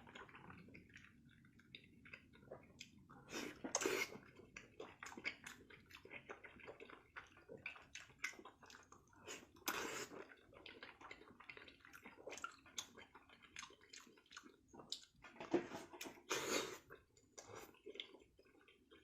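Close-up wet eating sounds: chewing and lip-smacking with many small clicks, and a few louder smacks or slurps spread through.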